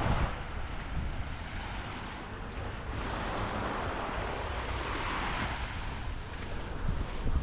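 Waves washing up on the beach, one swelling in and fading out about halfway through, with wind buffeting the microphone as a low rumble that gusts near the start and end.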